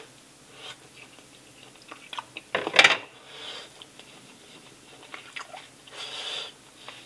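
A person chewing a mouthful of microwaved hot dog sausage with quiet, wet mouth sounds. There is one sharp knock about three seconds in.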